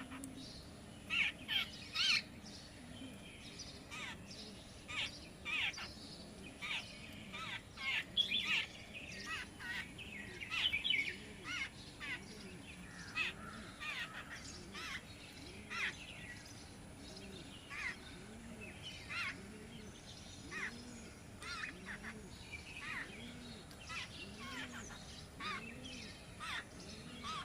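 Wild birds chirping and tweeting in many short calls. From about halfway, a low soft call repeats roughly once a second under the chirping.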